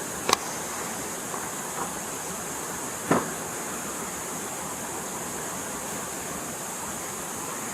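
Steady rushing of a flowing forest stream, with two short sharp knocks, one about a third of a second in and one about three seconds in, and a couple of faint ticks between them.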